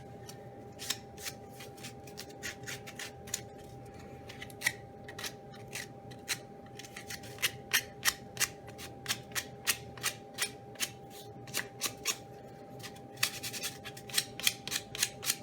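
Sandpaper rubbed by hand over small wooden latch pieces, short scratchy strokes at about two to three a second, sparser in the first half and quicker later. A faint steady hum runs underneath.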